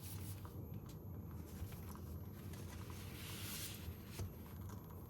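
Faint handling of a cash-stuffing binder and its envelopes: soft rustling with a few light taps, over a low steady hum of room tone.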